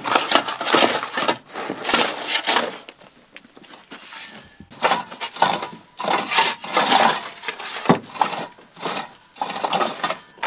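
Irregular scraping and gritty clattering of hand tools working soil and stone, with a few short clinks, as the ground is levelled for stone foundation slabs.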